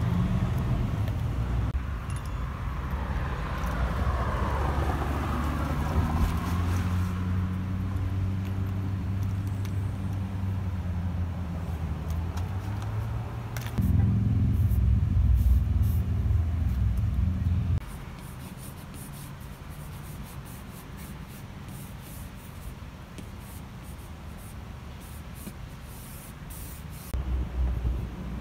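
Motor vehicle engine running steadily, with a whine falling in pitch over the first few seconds. After the engine sound stops, about two-thirds of the way in, there is a run of quick sharp ticks and scratches of chalk on a blackboard.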